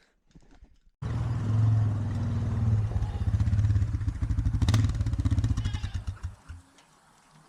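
Motorcycle engine running with a rapid, even pulse, starting abruptly about a second in and stopping shortly before the end.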